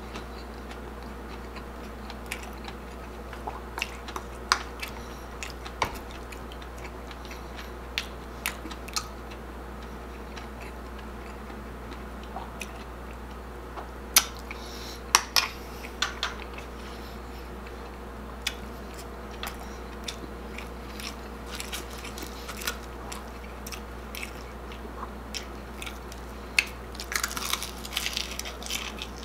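Close-miked chewing of a person eating crispy chicharon bulaklak (deep-fried pork mesentery) with mung bean stew and rice: scattered crunches, wet clicks and smacks, with a dense run of crunching near the end.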